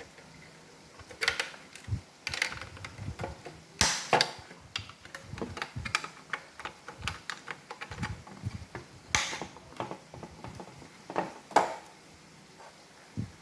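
Irregular clicks and knocks of hard plastic parts of an iRobot Roomba robot vacuum being handled and fitted together by hand, with louder clicks about four seconds in, around nine seconds and twice near eleven and a half seconds.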